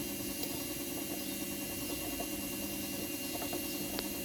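A steady low hum with a few faint light clicks of a part being handled and worked loose.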